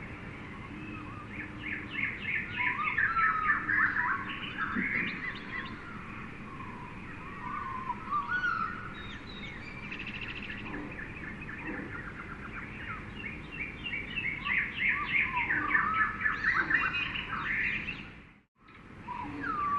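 Jungle bird chorus: many birds chirping and trilling at once over a steady background hiss, busiest in two stretches. Near the end the sound dips briefly almost to silence and comes back.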